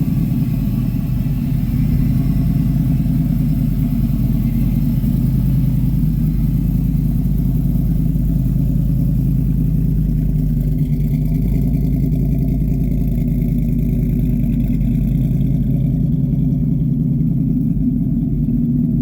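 A car engine running steadily, a constant low rumble with no revving.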